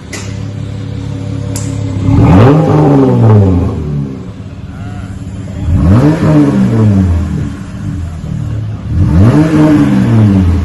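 Jeep Gladiator's 3.6 V6 exhaust idling through a single-chamber V-tube muffler with the rear resonator removed, revved up and back down to idle three times. Two sharp clicks come near the start.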